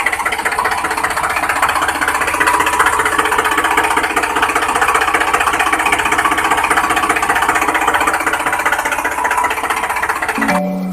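Engine running steadily with a fast, knocking rattle. It cuts off suddenly near the end and a short chiming music jingle begins.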